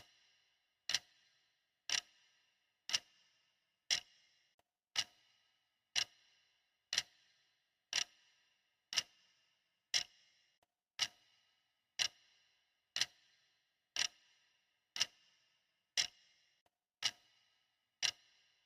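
Clock ticking steadily, one sharp tick each second with a brief ringing tail.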